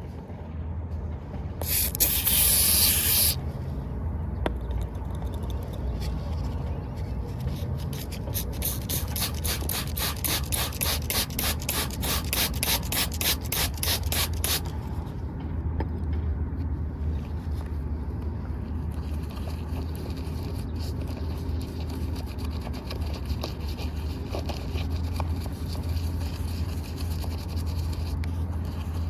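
Cleaning a muddy miniature toy car: a short hiss of spray about two seconds in, then rapid, regular brush scrubbing strokes for several seconds, followed by softer rubbing. A steady low hum runs underneath.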